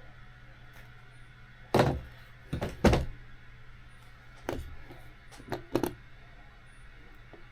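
Several sharp knocks and clunks of parts or tools being handled and set down on a workbench, the loudest a pair about three seconds in. A faint steady low hum runs underneath.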